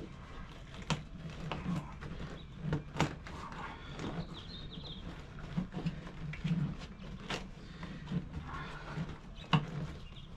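Scattered clicks and knocks of hands working a car seat base, pulling the old seat suspension sling out, over a steady low hum.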